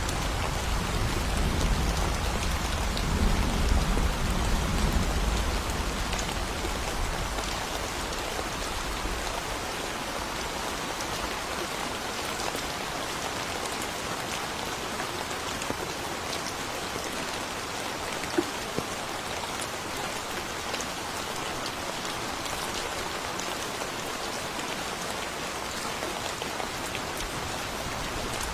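Steady rain falling in a forest, an even hiss with scattered drop ticks; a low thunder rumble dies away over the first several seconds.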